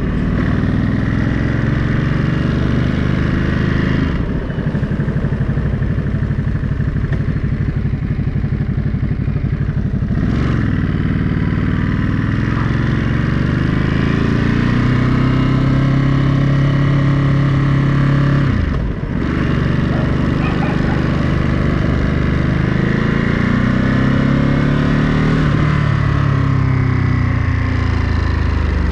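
Ducati Monster 937's 937 cc L-twin engine under way. Its pitch climbs and drops back about four times, as at gear changes or rolling off the throttle.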